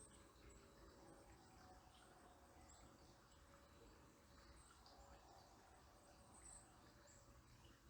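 Near silence with faint, scattered high-pitched chirps of small birds, a handful of short calls, the clearest about two-thirds of the way through, over a faint low outdoor rumble.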